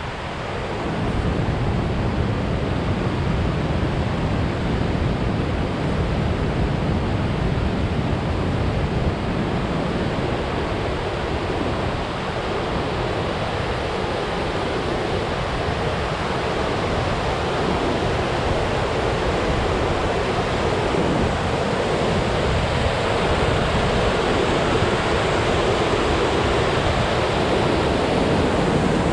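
Steady rush of water falling over a waterfall, a dense even noise that swells slightly about a second in.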